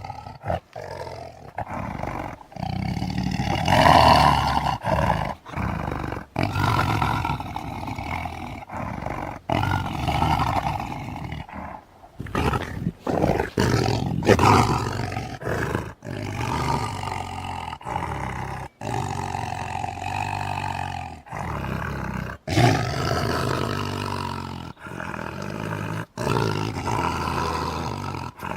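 Lion roars and growls, one call after another with short gaps between them.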